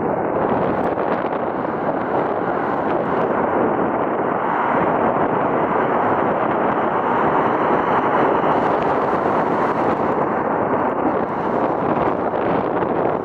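Steady, even rushing noise of wind on the microphone, with no distinct events.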